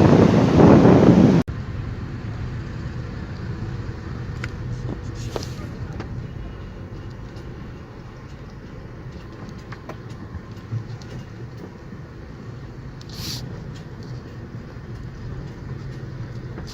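Wind buffeting the microphone, cut off suddenly about a second and a half in. After that comes quieter outdoor city ambience: a steady low rumble of distant traffic with scattered faint clicks and a brief hiss near the end.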